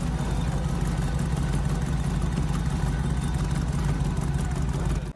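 A car engine running steadily at low revs close by. It cuts off suddenly at the end.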